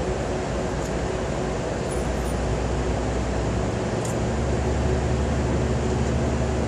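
Steady low mechanical hum over a broad rushing noise; the low hum tones shift about four seconds in.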